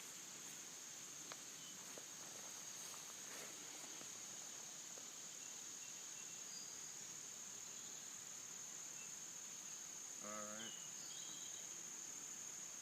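Steady high-pitched trilling of an insect chorus in the background. A short voice-like call lasts about half a second, about ten seconds in.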